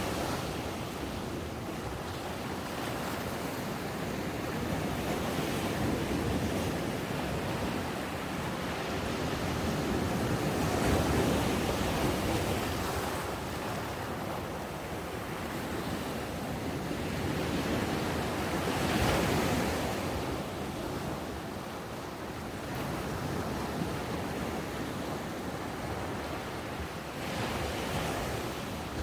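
Ocean waves breaking and washing up a sandy beach, a steady surf with swells as a bigger wave comes in about a third of the way in, again past halfway and near the end. Some wind on the microphone.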